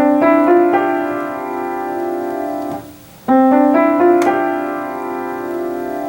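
Piano playing the same short accompaniment figure twice, about three seconds apart: a few notes enter one after another and are held so they ring on together and slowly fade. It demonstrates an accompaniment played with a softened strike, so the resonance and decay are not masked by the attack.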